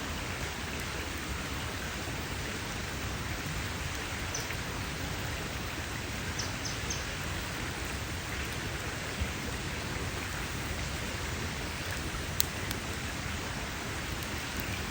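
Campfire burning with a steady crackle and hiss, and a few sharper pops of burning wood in the second half.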